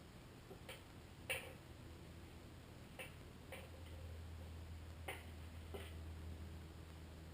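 Faint, scattered light clicks and taps, about six over several seconds, over a low steady hum.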